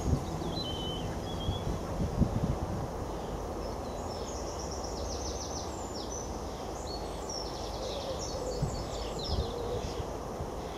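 Songbirds calling in quick, high chirping phrases over a steady low rumble, with a few soft low thumps.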